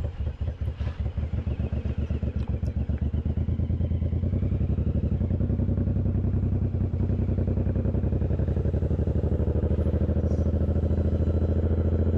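Suzuki Boulevard M109R's 1800 cc V-twin engine running at low revs with an uneven, pulsing beat, becoming steadier and a little louder from about three seconds in.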